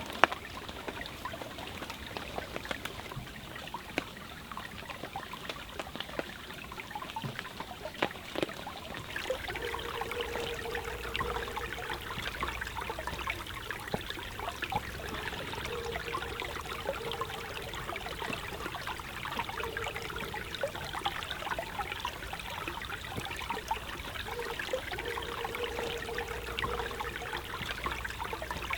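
Forest stream flowing steadily, with a dense scatter of small crackles and ticks from the campfire and falling rain. A steady mid-pitched tone comes and goes four times from about ten seconds in.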